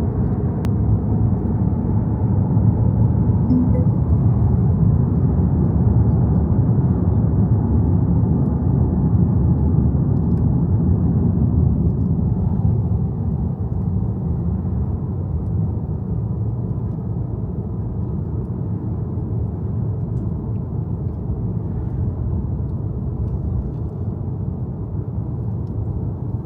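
Steady low rumble of a car on the move, road and engine noise with no sudden events, easing slightly about halfway through.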